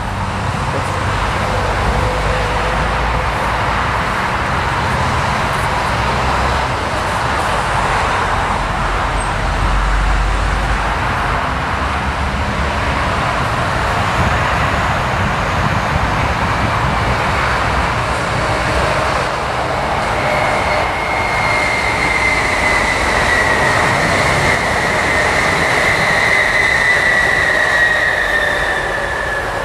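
A train approaching from a distance over a steady rushing noise. About two-thirds of the way through, a high whine comes in and slowly falls in pitch.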